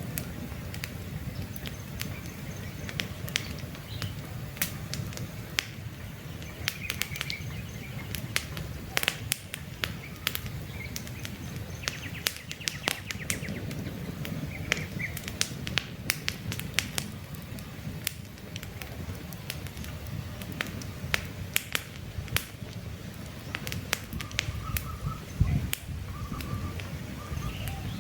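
Wood campfire crackling, with frequent irregular sharp pops over a low steady rumble of burning flames. Faint bird chirps come in now and then.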